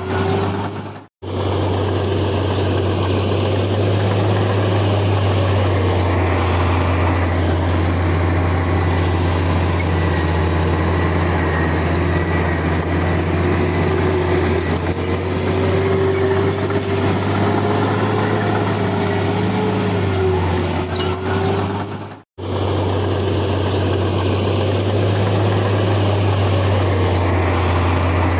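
Heavy diesel earthmoving machinery running steadily under load, a deep engine drone with a whine that wavers in pitch. The sound drops out briefly twice, about a second in and again about three-quarters of the way through.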